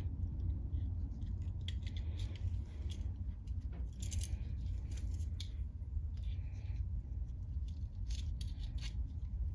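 Light metallic clicks and taps from small carburetor parts and tools being handled during cleaning, over a steady low hum.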